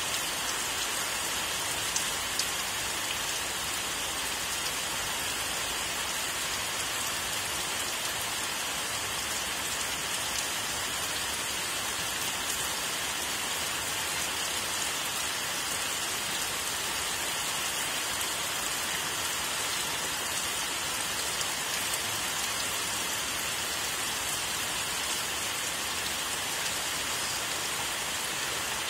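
Steady rain falling: a continuous, even hiss of many drops, with no thunder.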